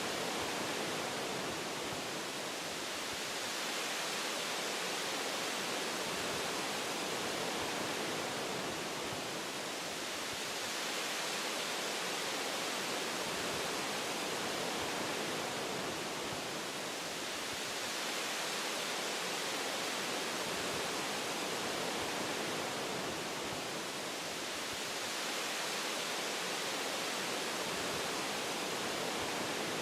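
Wind rushing through the branches of forest trees: a steady, even hiss that swells and eases gently every few seconds.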